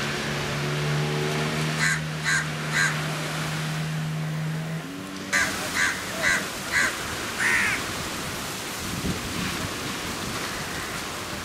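Bird calls: three short calls about two seconds in, then a run of five more from about five seconds in, over a steady low hum that stops a little before the second run.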